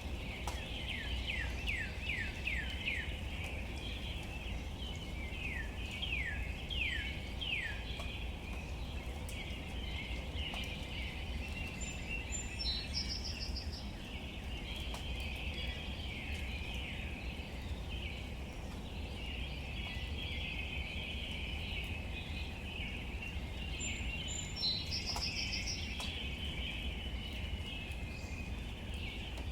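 Light rain falling on leaves in a steady hiss with scattered fine drips, under a steady high chirring. Birds call over it: a run of quick falling whistles near the start and again about six seconds in, and a short, high pulsed call twice, about twelve seconds apart.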